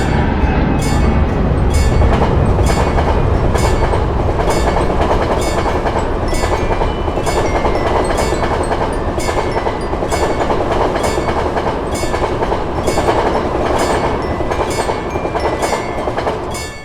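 Level crossing bell ringing steadily, about one stroke a second, over the loud rumble of a passing train. The train noise cuts off suddenly near the end while the bell keeps ringing.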